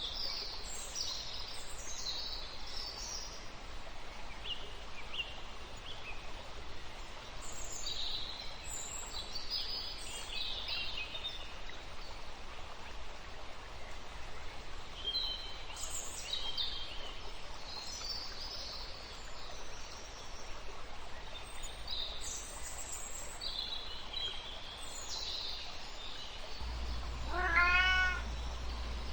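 A kitten gives one long, arching meow near the end, the loudest sound. Before it there is a steady background hiss with scattered short, high-pitched bird chirps.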